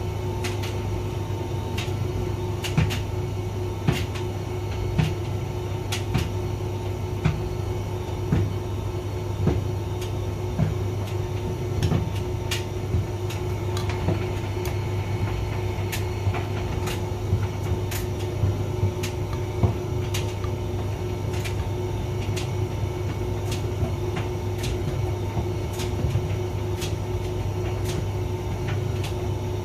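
Hotpoint vented tumble dryer running: a steady motor and drum hum with a constant low drone, broken by frequent irregular knocks, roughly one a second.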